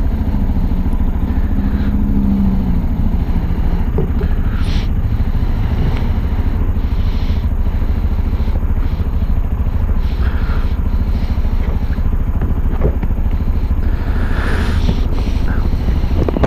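Peda Tekken 250 motorcycle running on the move, with heavy wind buffeting on the microphone; the engine note climbs and drops back in the first few seconds.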